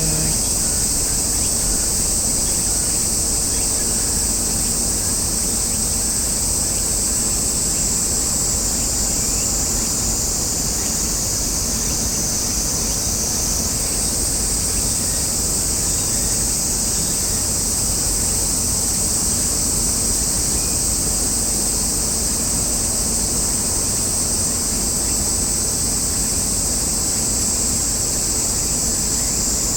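A chorus of cicadas, a steady high shrill buzz that shifts slightly in pitch about halfway through, over a low steady rumble.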